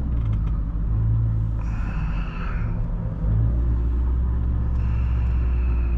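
Supercharged 4.6-litre V8 of a 2003 Ford Mustang SVT Cobra running slowly in stopped traffic, a steady low rumble that gets a little louder about three seconds in.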